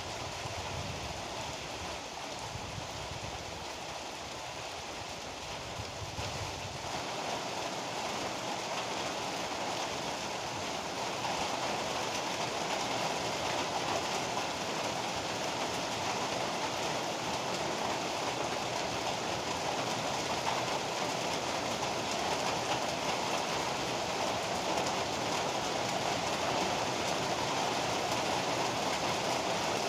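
Heavy rain pouring steadily, a dense hiss of drops. A low rumble sits under it for the first several seconds, then the rain grows a little louder.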